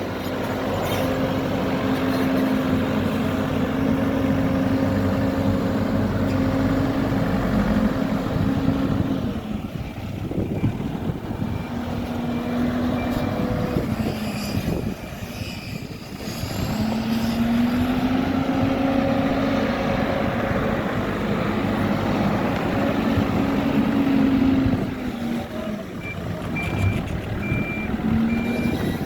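HİDROMEK backhoe loader's diesel engine working, its pitch rising and falling with load and dropping back twice. Near the end the reversing alarm starts beeping at a steady pace.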